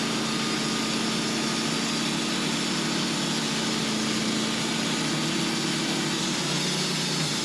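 Engine of a portable bandsaw mill running steadily while the blade saws a board off a spruce cant. Its pitch drops a little near the end.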